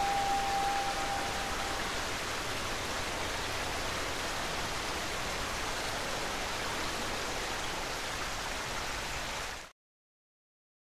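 River babbling through a tunnel, a steady rush of water. The last held note of a ney, a Turkish end-blown reed flute, fades away in the first two seconds. The sound cuts off suddenly near the end.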